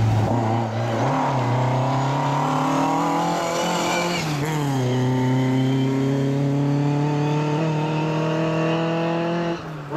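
Ford Escort Mk1 rally car's engine pulling hard uphill, its pitch climbing as it approaches. The pitch falls as the car passes close by, about four and a half seconds in, then holds a steady note as it drives away.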